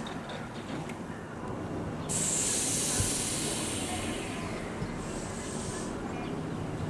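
Nose Electric Railway 5100-series electric train at a station stop, letting out a sudden loud hiss of compressed air about two seconds in that fades away over a few seconds, then a shorter air hiss near the end, over the train's low steady hum.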